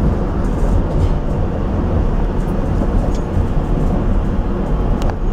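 Steady low rumble of a SEPTA Rotem Silverliner V electric multiple-unit car running on the rails, heard from inside the car at its front window, with one sharp click about five seconds in.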